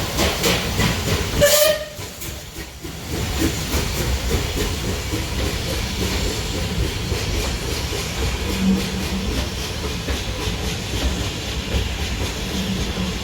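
Steam locomotive (rebuilt Bulleid Merchant Navy 4-6-2, 35005) getting a train under way: regular exhaust beats with steam hiss, loudest about one and a half seconds in. After a brief dip the train rolls past with a steady rumble and repeated wheel clicks.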